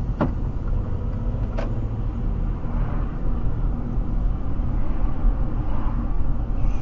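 Moving car's engine and road noise, a steady low rumble, with two short clicks near the start.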